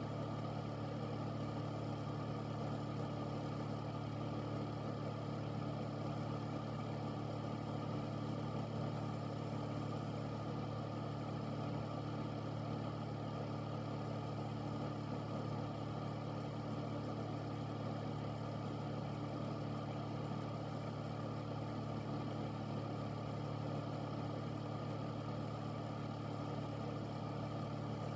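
Air filter (air purifier) running steadily: its fan motor gives a constant low hum under an even rush of moving air, with no change in speed.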